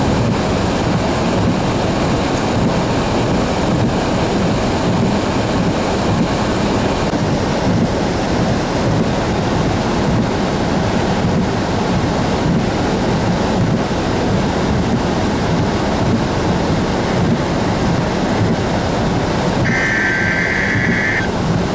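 High storm winds, clocked at about 55 miles an hour, blasting across the microphone as a loud, steady wind noise. A short steady tone sounds near the end.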